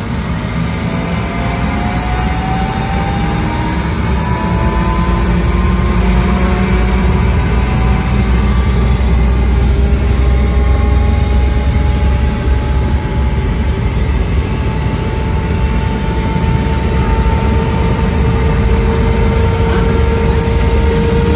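Helicopter turbine and rotor running loud: a deep steady drone with a whine that slowly rises in pitch, building in loudness over the first few seconds and then holding.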